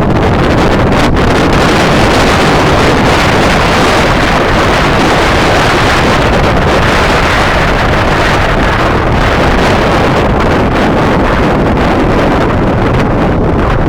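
Strong wind buffeting the microphone: a loud, steady rush that swells a little around the middle.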